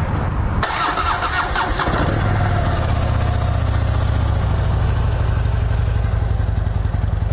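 Harley-Davidson Switchback's 103 cubic-inch V-twin starting up, then settling into a steady idle after about two seconds. It runs through the factory 2-into-1 exhaust and sounds kind of quiet.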